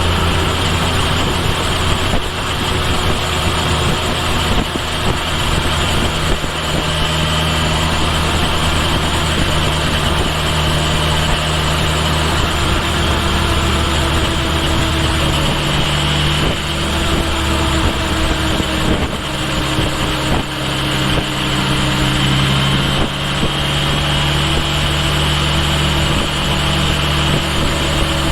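Kawasaki Ninja H2 SX's supercharged inline-four running on the road, its note shifting in pitch a few times as the speed changes, with steady wind and road noise.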